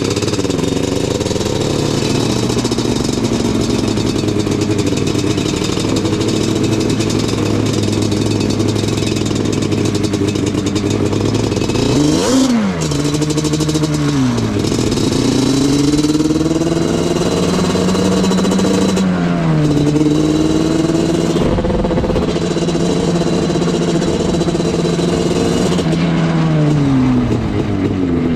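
Yamaha Banshee ATV's twin-cylinder two-stroke engine running under way. The engine speed holds steady, then about halfway through it revs up and drops back sharply several times, and it falls away again near the end.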